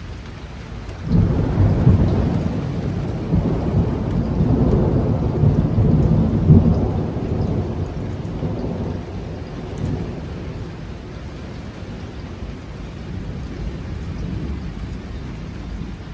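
A long roll of thunder that breaks in suddenly about a second in, rumbles loudest around six seconds, then fades away slowly over steady rain.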